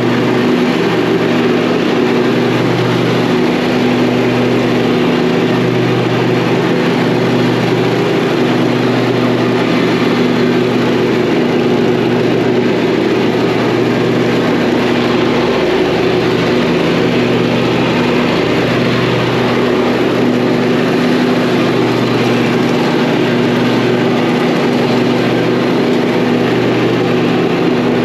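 Zero-turn riding lawn mower engine running steadily at a constant speed while mowing.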